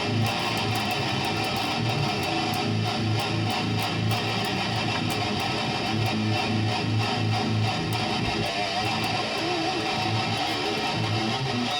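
Schecter Omen Elite 7-string electric guitar being played solo at a steady level, a riff built on repeated low notes with higher notes over them.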